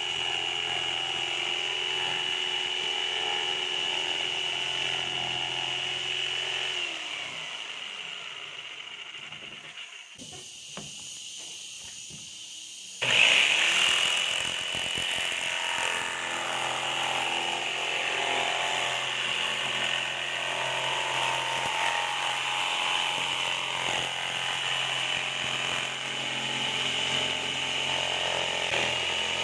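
Electric power tool motor running steadily, then winding down with a falling pitch about seven seconds in. It is switched back on abruptly about thirteen seconds in and runs on.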